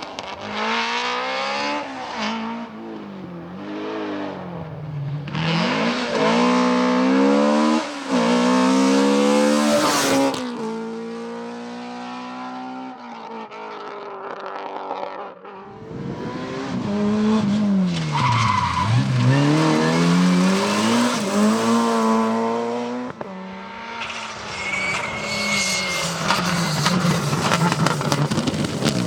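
Rally cars at speed on a special stage, their engines revving high and dropping again and again through gear changes and off the throttle into corners, with skidding tyres squealing.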